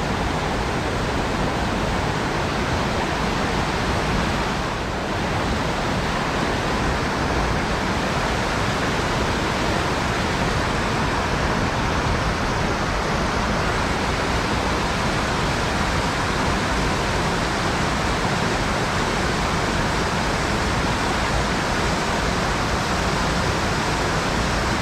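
Steady rush of a mountain-fed stream's flowing water, an even hiss without a break.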